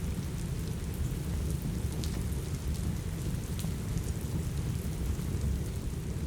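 Rain and wood-fireplace ambience: steady rain with a deep low rumble, and scattered faint crackles and ticks over it.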